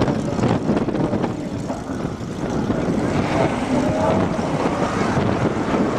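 Drag-racing vehicle engine running hard, a loud steady rush of engine noise with wind on the microphone.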